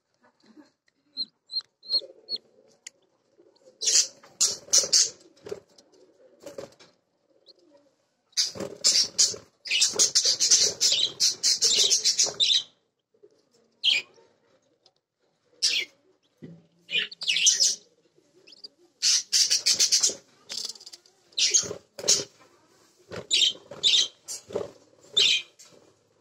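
Birds: a few quick high chirps, then repeated bursts of wing flapping.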